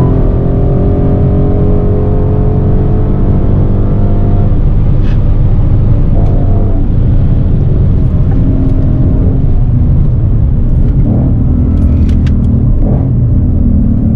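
2015 Ford Mustang GT's 5.0-litre V8 with a Borla ATAK exhaust running hard under acceleration, heard from inside the cabin. Its pitch rises over the first few seconds, then drops about five seconds in.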